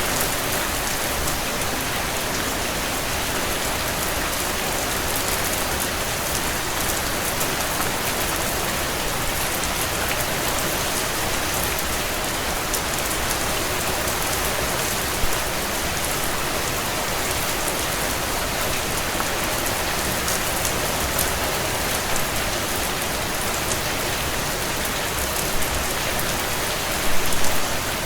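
Heavy rain drumming steadily on a tin roof, a dense patter of drops, with a few louder drop hits near the end.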